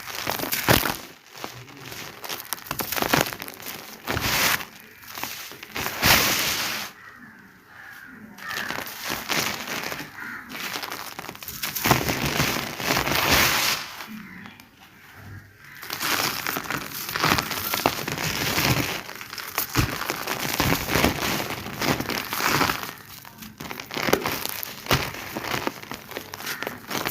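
Dried sand-cement being crumbled and crushed by hand inside a sheet, in repeated crunchy, crackling bouts with short pauses between them.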